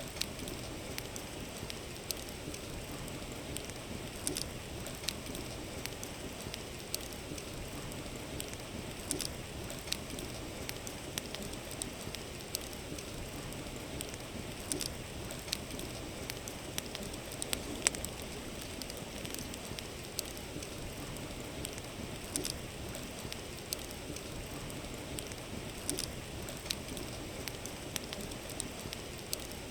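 Wood fire crackling with irregular sharp pops, the loudest about eighteen seconds in, over the steady rush of a flowing river.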